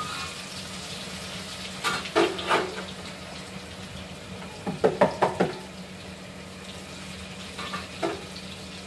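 Thin slices of tempeh tipped into hot oil in a frying pan and sizzling, with louder bursts of crackle and clatter about two seconds in and again around five seconds. A steady low hum runs underneath.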